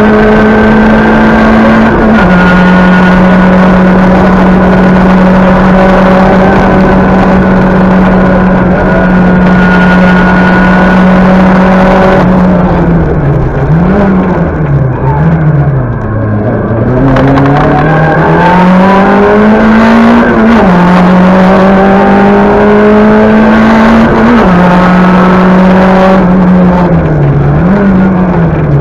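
Talbot Samba Group B rally car's four-cylinder engine driven hard at high revs, heard from inside the cabin. About halfway through the revs drop away with several quick dips and rises, as when braking and downshifting. They then climb again, with a sharp step at each upshift.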